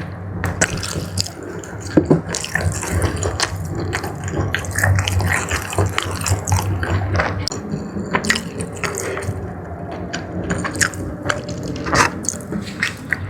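Close-miked wet chewing and lip-smacking of sauce-coated jumbo squid, with many short sticky clicks and squelches throughout.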